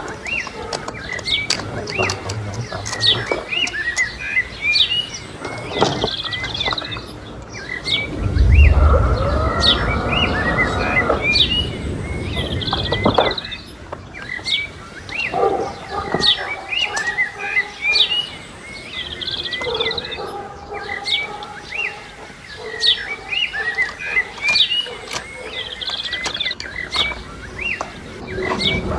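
Small birds chirping busily, many short rising chirps in quick succession. About eight seconds in there is a louder, low, drawn-out sound that lasts a couple of seconds.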